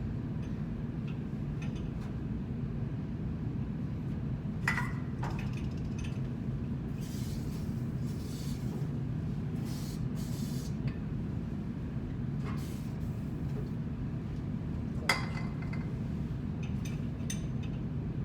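Hand tools clinking on metal during work on a blower's bearing, with two sharp metallic clinks, one about five seconds in and a louder one near the end, over a steady low machinery hum. A few short hissing sounds come in the middle.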